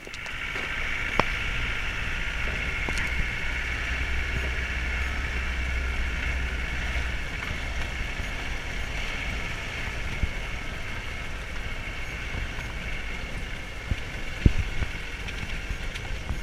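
Land Rover Defender driving, steady engine and road noise with scattered knocks and rattles. The low rumble eases about halfway through, and a sharper knock comes near the end.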